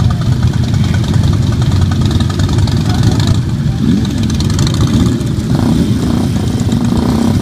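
Motorcycle engines running, one of them revving up and down about four seconds in, then a steady engine hum.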